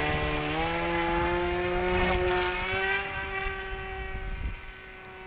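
Electric motor and propeller of an RC flying wing running at high throttle, a steady whine whose pitch steps up slightly about half a second in. It grows fainter after about four and a half seconds.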